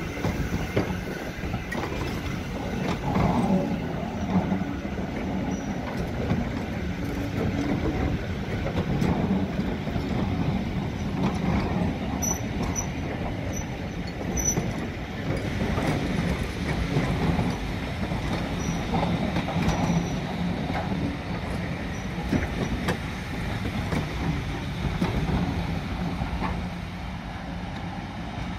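Passenger coaches of a heritage train rolling slowly past: a steady rumble of wheels on the rails with clatter over the joints.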